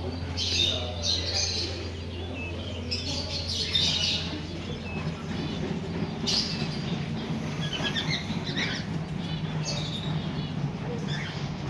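Many small birds chirping and tweeting in short, overlapping calls, over a low steady hum.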